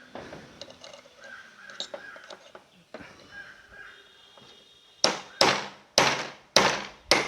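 Hammer blows on a handle-less screwdriver cutting through a spread rivet on the mixer motor's bushing plate: faint handling at first, then five sharp strikes in quick succession near the end.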